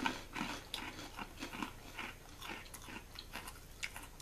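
Two people chewing crisp seaweed-and-soy-sauce rice crackers, with irregular dry crunches throughout.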